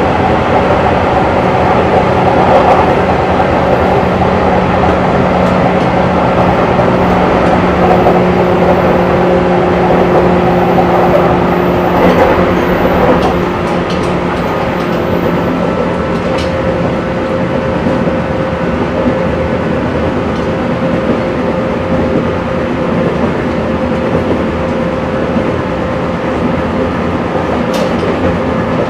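Running sound of a JR 185 series electric train, heard from the vestibule of a motor car: a steady rumble with a constant hum. About thirteen seconds in, one hum stops and the sound gets a little quieter, with a few light clicks later on.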